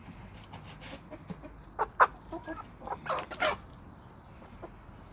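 Chickens clucking, a few short clucks bunched together in the middle, the loudest about two seconds in.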